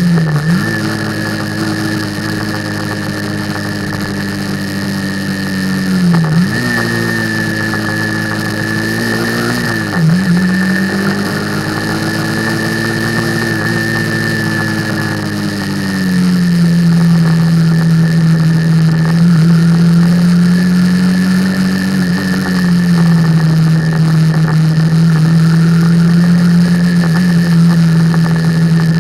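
Motorcycle engine running steadily at road speed, with wind rush. The engine note dips briefly about a second in and twice more, around six and ten seconds in, and grows louder a little past halfway.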